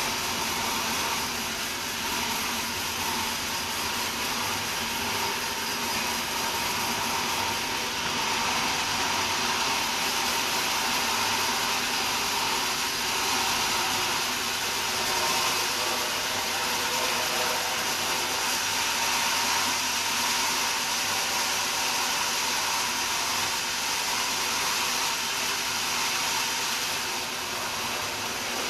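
Sawmill saw running steadily: a loud, even whir with a steady hum under it. The high hiss grows stronger about eight seconds in and eases near the end.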